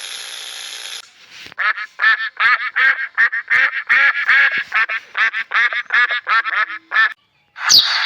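A duck quacking in a rapid run of short calls, about three a second, breaking off about a second before the end. Sharp bird chirps start near the end.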